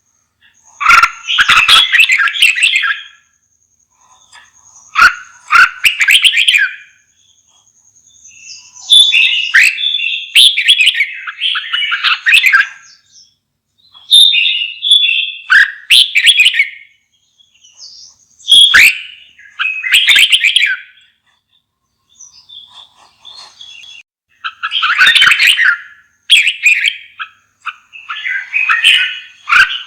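Red-whiskered bulbul singing: a string of loud, rich warbled phrases, each one to three seconds long, with pauses of about a second between them.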